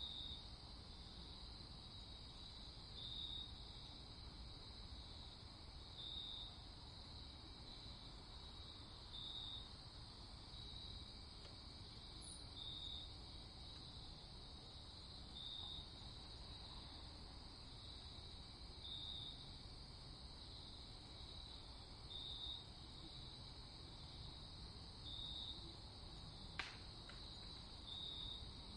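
Night insects, crickets, trilling steadily at a high pitch, with a slightly louder call repeating about every three seconds over a faint low rumble. One sharp click near the end.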